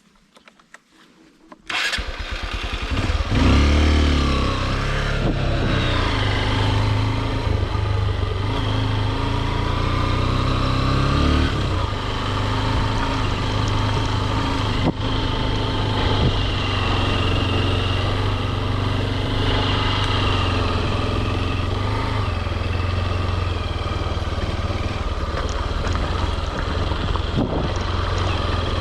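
Honda CRF150L single-cylinder motorcycle engine coming in suddenly about two seconds in, revving up and down for a few seconds as the bike gets going, then running steadily under way.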